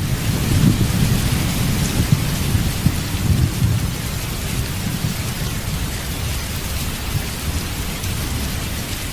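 Steady rain with a low rolling rumble of thunder underneath, the rumble slowly dying down.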